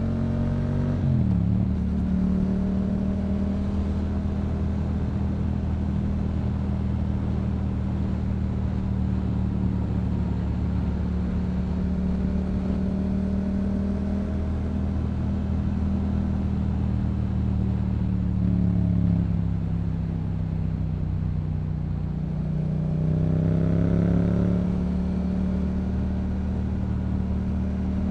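Yamaha MT-07's parallel-twin engine through a Yoshimura exhaust, cruising at steady revs. The revs drop about a second in, then ease off past the middle and climb again near the end.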